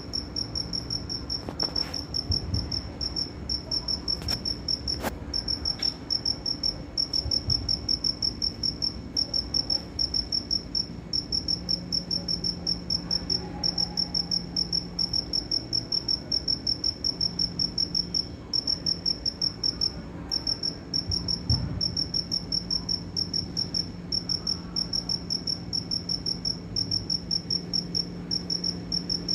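A cricket chirping in a steady, even rhythm of high chirps, a few a second, with short breaks now and then.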